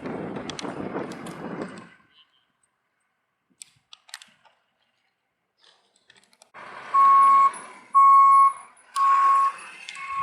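A rumbling noise for the first two seconds, then near silence. From about two-thirds of the way in, an electronic warning beeper sounds in short, steady-pitched beeps about once a second, like a vehicle's reversing alarm, over a noisy background.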